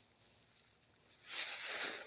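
Near quiet, then about a second in a soft rustling hiss starts and carries on.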